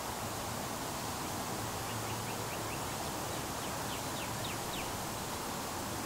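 A small bird calling in two quick runs of thin, falling chirps, about five short ones around two seconds in and five longer ones around four seconds in, over a steady outdoor hiss.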